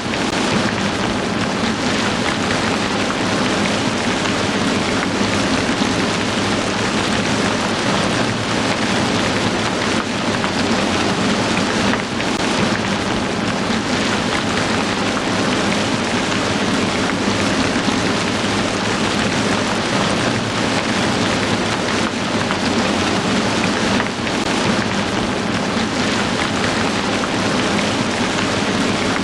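Heavy rain falling steadily: a dense, even wash of rain noise with no pauses, dipping only briefly twice.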